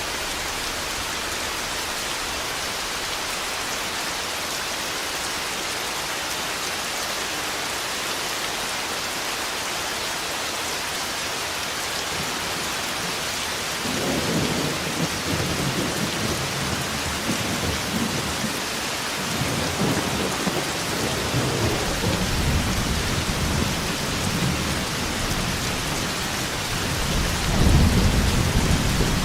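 Steady heavy rain hissing. About halfway through, rolling thunder starts and rumbles on in several swells, with the loudest clap near the end.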